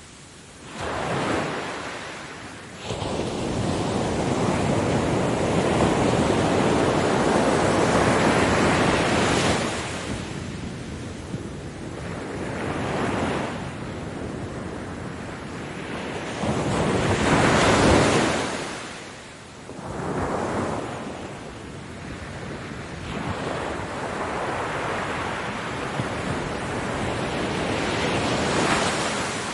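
Ocean waves breaking on a beach, surges of surf that swell and fade every several seconds, with a long loud wash early on and another strong break past the middle.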